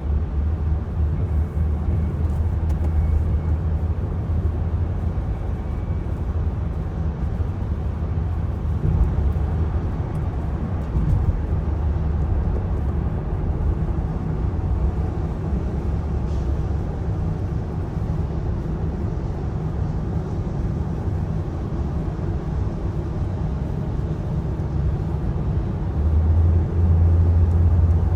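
Steady low rumble of a running motor vehicle, growing louder near the end.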